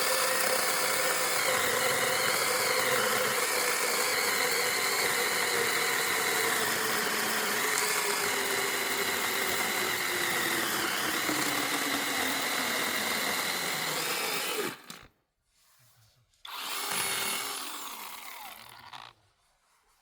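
A power tool's motor runs loudly under load, its pitch sinking slowly, then stops abruptly about three quarters of the way through. It starts again briefly and winds down, fading out.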